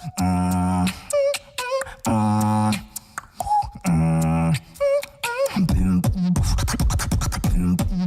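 Solo competition beatbox routine. Three long buzzing held tones, about a second each, alternate with short whistled glides. From about the middle it switches to a fast run of percussive hits over falling bass sounds.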